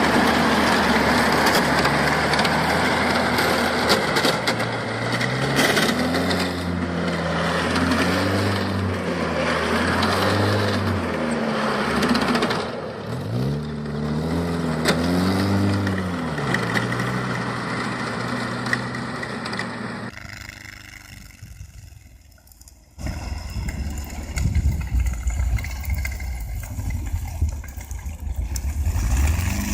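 Vehicle engine running and revving up and down several times, the pitch rising and falling repeatedly. About twenty seconds in the sound drops away and switches abruptly to a different, deeper engine rumble.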